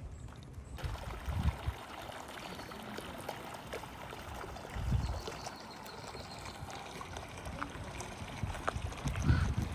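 Outdoor ambience: a steady hiss, broken by three short low rumbles of wind buffeting the microphone, about a second and a half in, around five seconds in, and near the end.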